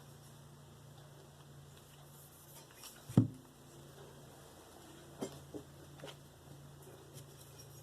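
Objects being handled and set down on a workbench: one solid knock about three seconds in, then a few lighter clicks and taps, over a steady low hum.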